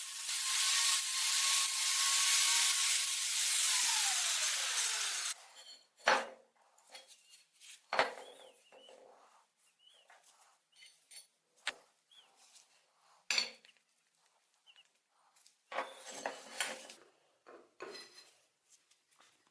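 A power tool runs with a steady whine over a loud hiss. About four seconds in it is switched off: the whine falls as it winds down, and the sound cuts out about five seconds in. Scattered knocks and clinks of metal parts being handled follow.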